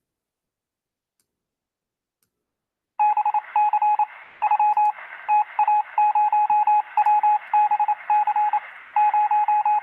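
Morse code: a single steady beep tone keyed on and off in short dots and longer dashes, over radio hiss, starting about three seconds in after silence.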